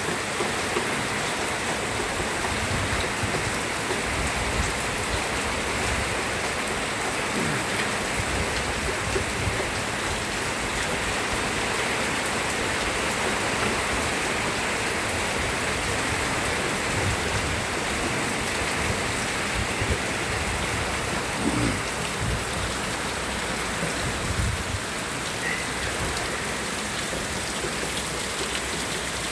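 Steady rain falling, with a dense even hiss of drops on surfaces and occasional small low thuds from heavier drops.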